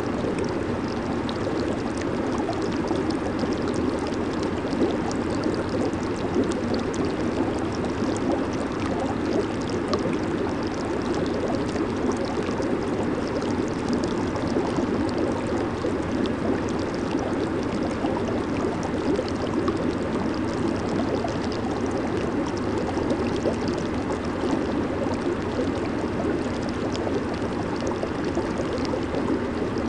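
Jacuzzi jets churning the tub water: a steady rushing with a fine crackle of small bubbles.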